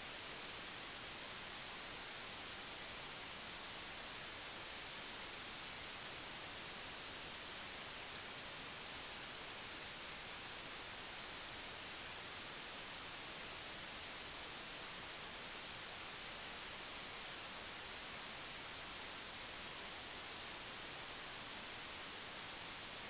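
Steady, even hiss like static, brighter in the high end, with no distinct sounds standing out of it.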